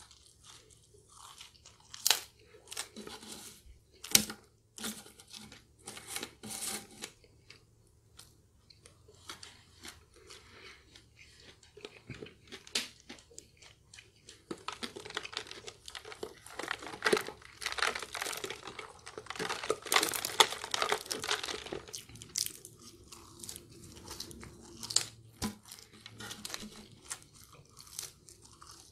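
Close-up sounds of a person chewing and crunching French fries, made up of irregular wet smacks and sharp clicks, with a louder, denser run of chewing noise through the middle.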